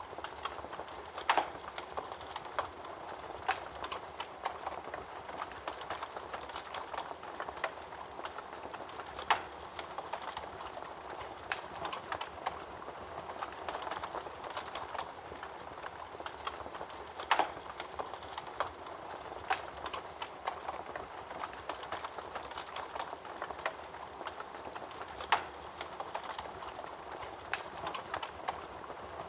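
Fire crackling: a steady hiss with frequent small snaps and four louder pops, about eight seconds apart.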